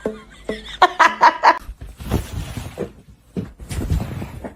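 A person laughing in a quick run of short bursts, then rustling noise with a few low thuds.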